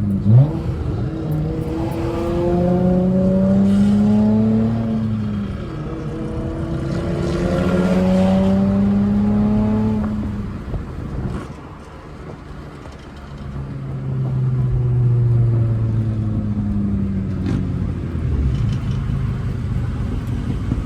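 Straight-piped V6 engine of a manual Honda Accord pulling through the gears: its note climbs, drops at a shift, and climbs again. Around the middle it goes quiet off throttle, then settles into a lower, steadier drone.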